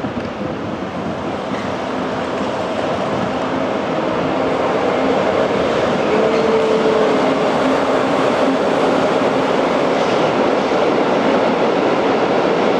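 Rolling noise of a moving train heard from aboard, steady and rushing, growing louder over the first half as it runs in under the station roof.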